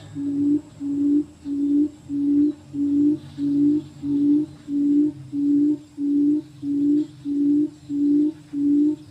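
Quail calling: a low, pure hooting note repeated steadily about twice a second.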